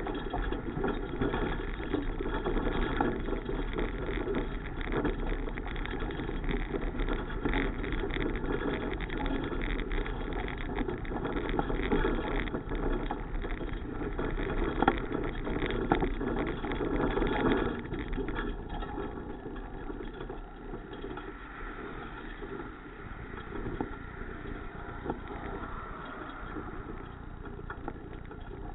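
Steady road and wind rumble of a bicycle ride, louder at first and easing off about two-thirds of the way through.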